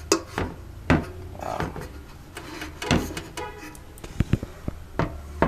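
Scattered knocks and clicks as the vintage Mimar hair dryer's fold-in legs are moved and the appliance is handled, with a quick run of small ticks past the middle.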